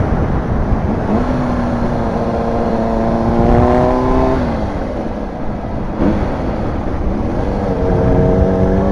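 Motorcycle engine under way with heavy wind rumble on the microphone. The engine note climbs and holds from about a second in, falls away around four and a half seconds, then climbs and holds again from about six seconds.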